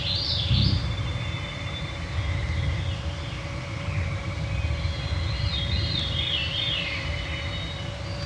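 Veery song: two spiraling phrases that fall in pitch, one at the start and one about five seconds in, over the steady whine of a cloud of mosquitoes and a low rumble.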